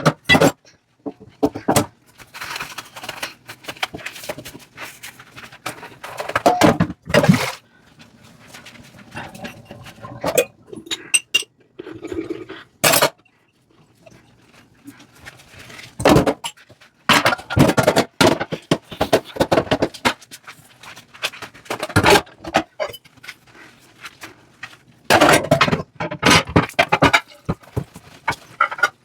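Dishes, pots and cutlery knocking and clinking against each other as they are washed by hand in a sink, in irregular clusters with quieter scrubbing and rinsing between them.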